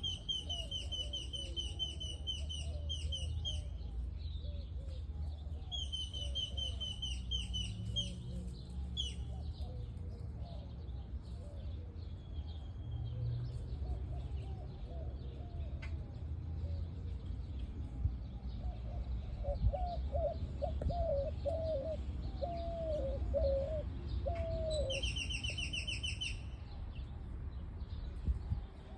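Birds calling: bouts of fast, evenly repeated high chirps in a rapid trill, three times, over a run of lower hooked calls that grow louder past the middle. A steady low rumble lies underneath.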